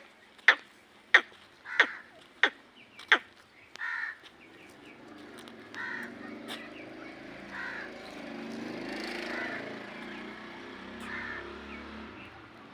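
A kept bird calling: harsh, caw-like calls repeat every second or two over a rustling background. They follow a run of six sharp clicks, about one and a half a second, that stops after about three seconds.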